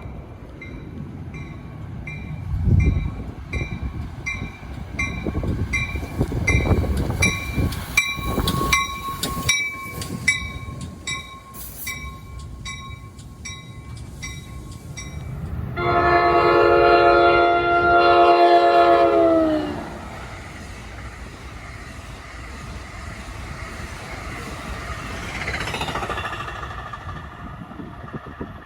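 Train passing on the rails with a bell ringing steadily, a little under twice a second, for the first half. About halfway through comes one long horn blast of nearly four seconds, whose pitch sags as it cuts off.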